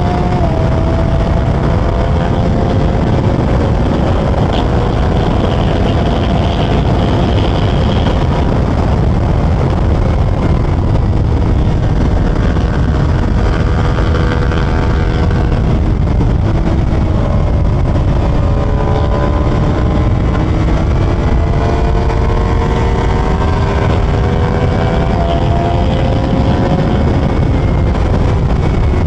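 Suzuki GSX-R750 inline-four engine running hard on the open road, its note climbing slowly, dipping about halfway through, then climbing again. Heavy wind rush on the microphone sits under it.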